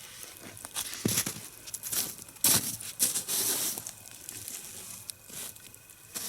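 Irregular crunching and rustling with a couple of sharp knocks: the smouldering log of a single-log nodya fire being shifted and set in place.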